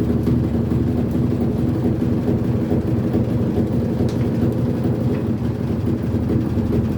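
Electrolux Turbo Economia 13 kg washing machine running unbalanced, a steady low hum with fast, irregular knocking as the tub bangs against the cabinet. A broken suspension spring is the cause.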